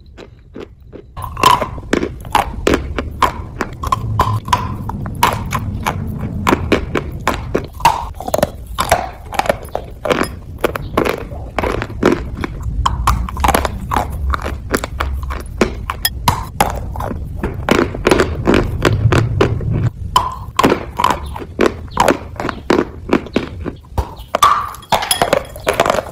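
Close-miked biting and chewing of hard pieces of eating chalk and dry white clay: a dense run of sharp, irregular crunches over a low mouth rumble.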